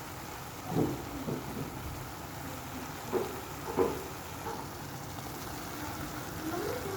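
Food sizzling steadily in a frying pan, with a few short knocks about a second in and again around three to four seconds in.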